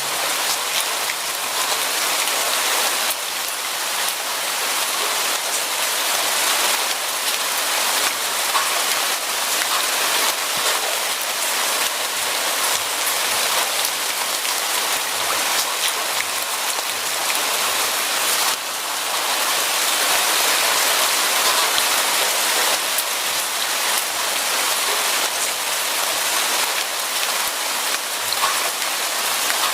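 Steady rain falling: an even hiss, strongest in the high range, with a brief dip in loudness about eighteen seconds in.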